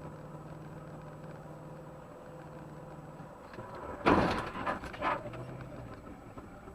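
Car engine running steadily, then about four seconds in a sudden loud impact, with a second smaller hit about a second later: a vehicle collision.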